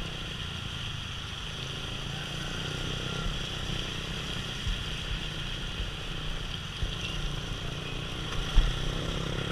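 Motorcycle riding in the rain, heard from a helmet camera: a steady low rumble of wind buffeting and engine under a constant hiss, with a single sharp knock near the end.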